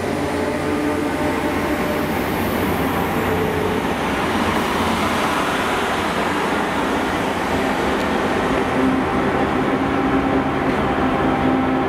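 Transport for Wales diesel multiple unit running past with its underfloor engines and wheels on the rails, a steady mechanical rumble. Near the end a steady engine hum grows as a Class 769 unit approaches.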